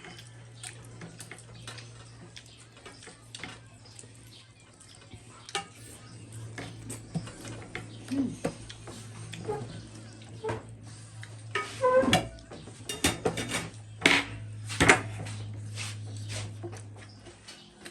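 Dishes clinking and clattering during a meal, many small clicks with louder clatters about twelve and fifteen seconds in, over a steady low hum.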